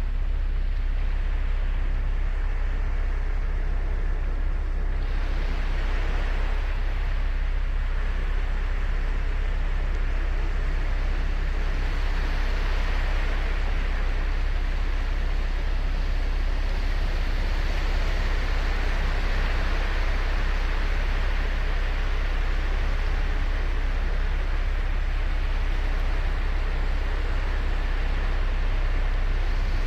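Ocean surf on a sandy beach: a continuous wash of breaking waves with a steady low rumble, swelling into a louder hiss about five seconds in as a wave breaks and runs up the shore.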